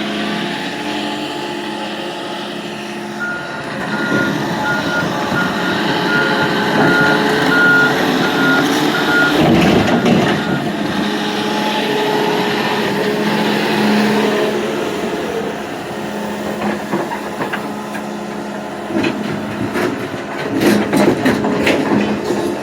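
Heavy construction machinery running, with a backup alarm beeping repeatedly at one pitch for several seconds, then stopping; a few sharp clanks near the end.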